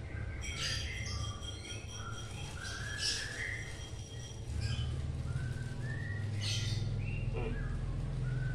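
Birds chirping in short whistled notes, some gliding up or down, repeated throughout, over a steady low hum that grows louder about halfway through.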